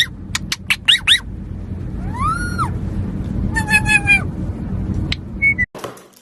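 Pet parrot chirping and whistling: quick short chirps and clicks, one rising-and-falling whistle about two seconds in, then a fast run of squeaky notes. The sound cuts off abruptly near the end.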